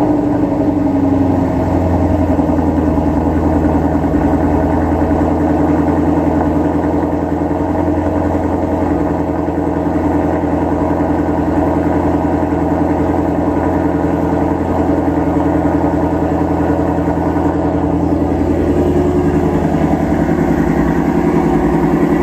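2020 Shelby GT350R's 5.2-litre flat-plane-crank V8 idling steadily through its exhaust after a cold start.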